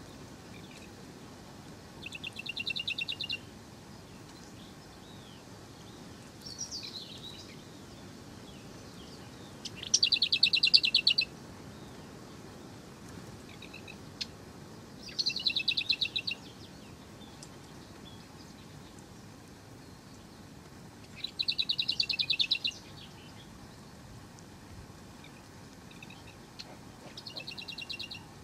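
A songbird singing five short, rapid trills a few seconds apart, with a few single chirps between them, over a faint steady hiss.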